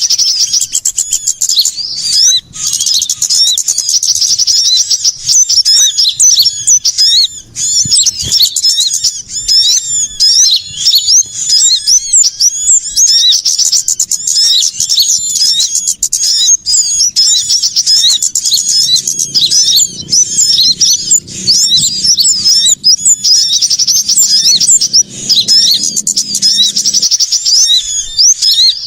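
Dense, loud chorus of small songbirds calling over one another, rapid high chirps and trills running without a break. It is a noisy ('ribut') bird-lure recording used to draw small birds in for trapping.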